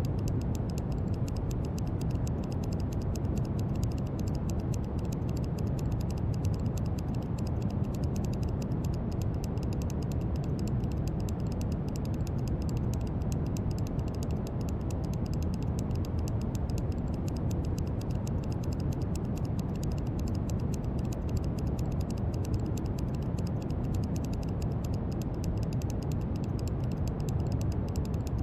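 Brown noise: a steady, deep, even rushing hiss, strongest in the bass, with a faint fast crackle on top.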